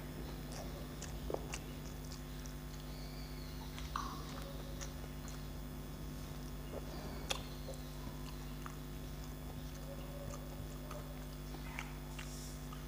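Chewing and mouth sounds of a man eating rice and curry with his fingers from a steel plate, with a few sharp clicks over a steady low hum.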